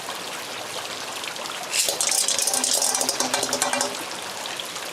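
Steady rain falling. From about two seconds in there is a brief burst of rattling clatter that lasts about two seconds.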